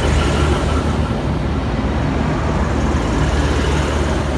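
V/Line VLocity diesel railcar arriving at the platform, its engines running with a steady low drone.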